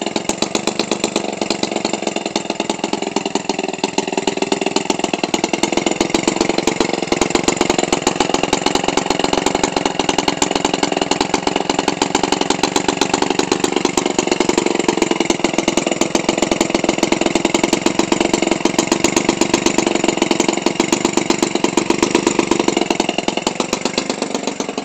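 Toro 28cc gasoline engine, converted for a radio-control airplane and turning a propeller, idling steadily at about 1500 RPM. It runs with a rapid, even firing beat and is very smooth.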